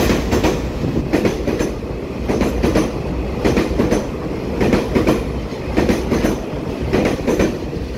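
Taiwan Railway EMU3000 electric multiple unit rolling past, a steady rumble with its wheels clicking over rail joints, the clicks coming in close pairs as each bogie crosses.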